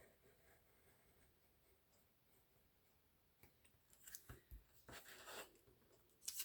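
Paper being cut by hand: after a near-silent start, a run of short scratchy strokes and clicks over the last three seconds, the loudest just before the end.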